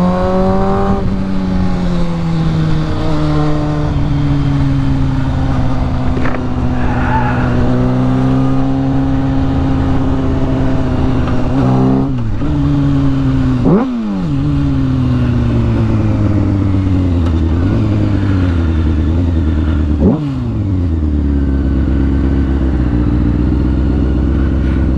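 Honda CBR600F4i sport bike's inline-four engine running under way, its pitch rising and falling with the throttle. Sharp changes in the engine note, with brief dips in loudness, come about halfway through, again soon after, and once more some seconds later, as gears change; a steady lower note follows near the end.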